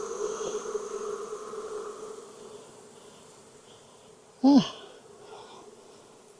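Honeybees (Apis mellifera) buzzing around an opened hive: a steady hum that fades away over the first couple of seconds. About four and a half seconds in comes one brief, loud vocal sound from a person, falling in pitch.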